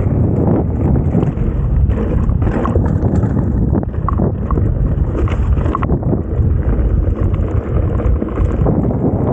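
Wind buffeting the microphone of a mountain bike rider's camera on a fast descent, with the bike rattling and knocking over rough trail ground.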